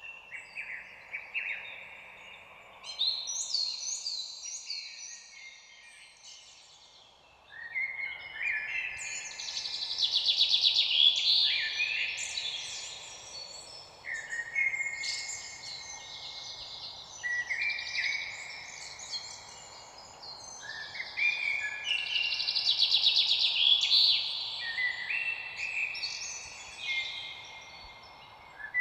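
Several songbirds singing at once, with quick chirps and trills overlapping, busier after the first several seconds. A faint steady rush of background noise lies underneath.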